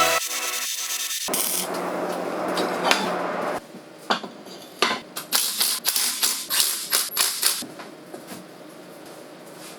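Metal workshop parts being knocked and tapped: a run of sharp metallic clinks and knocks, several a second, that starts a few seconds in after a steady hiss and dies away near the end.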